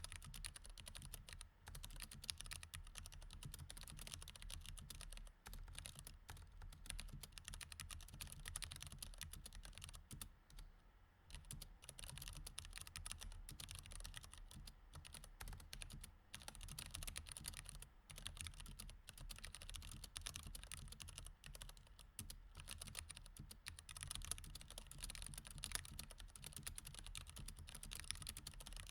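Typing on a mechanical keyboard with Cherry MX Red switches: a fast, steady stream of key clicks, with a short pause about ten seconds in.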